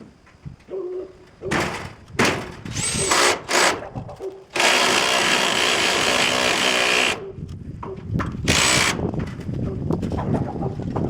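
Power screw gun driving screws into pole-barn siding: several short bursts of the motor's whine, one longer run of about two and a half seconds in the middle, then another short burst.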